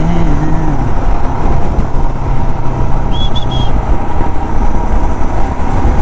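Royal Enfield Himalayan motorcycle riding through city traffic: engine running steadily under heavy rumbling wind and road noise. A brief high triple beep sounds about three seconds in.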